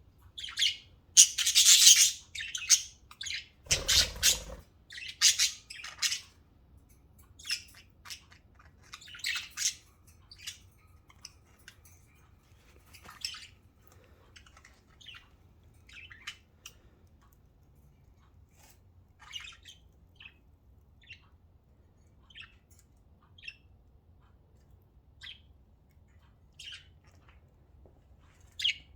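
Pet budgerigars chirping and squawking: a dense run of calls in the first few seconds, then scattered short chirps. A single dull thump about four seconds in.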